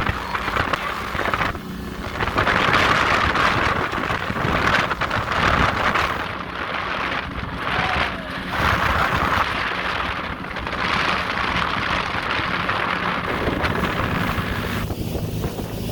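Wind buffeting the microphone in repeated gusts over the steady running of a motorboat's engine.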